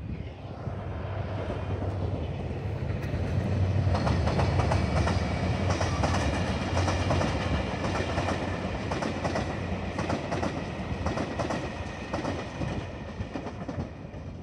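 A passing train: a rumble that builds over the first few seconds, then the steady clickety-clack of its wheels over the rail joints as the carriages roll past.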